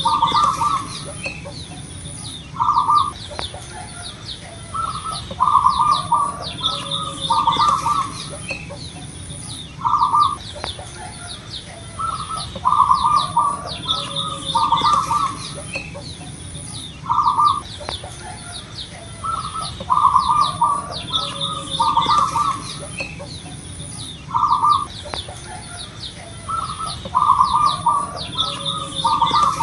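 Zebra dove (perkutut) cooing: short groups of quick staccato coo notes repeating in a regular cycle every few seconds, with small birds chirping higher up and a steady high whine underneath.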